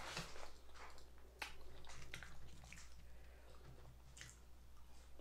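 Faint close-up eating sounds: chewing and wet mouth noises from a person eating a fried chicken meal, with a few short clicks.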